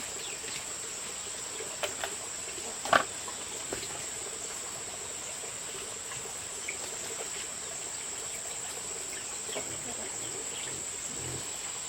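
Insects chirring in a steady high drone, with a few sharp knocks, the loudest about three seconds in.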